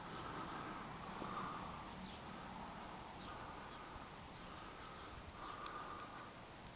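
Quiet outdoor ambience with a few short, faint bird chirps now and then.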